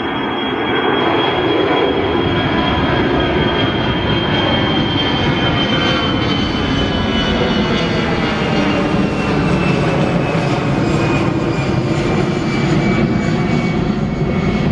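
An airliner's engines running loud as it passes on the runway, a steady rumble with a high whine that falls slowly in pitch.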